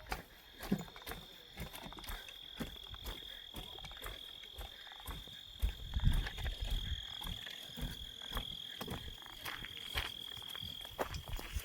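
A steady, high-pitched insect trill held on one pitch for about eleven seconds, stopping shortly before the end, over scattered light clicks and low thumps.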